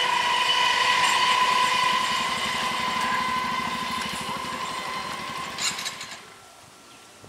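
Electric multiple unit local train running past and fading away, with a steady high-pitched whine over wheel noise and clatter. A brief clank comes near the end, then the sound drops away about six seconds in.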